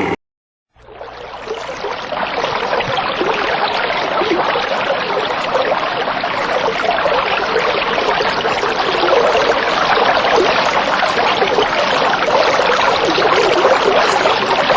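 Running water, like a stream, flowing steadily; it fades in about a second in after a brief silence.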